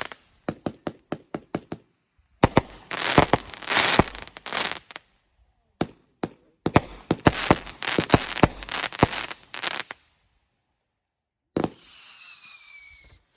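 Consumer fireworks going off: a quick string of about eight sharp bangs, then two long stretches of dense, rapid cracking with a lone crack between them. Near the end a hissing whistle slides down in pitch.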